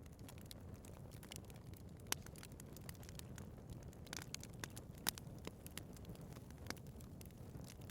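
Wood fire burning in a fireplace: a low steady rumble of flames with frequent sharp crackles and pops, the loudest pops about two and five seconds in.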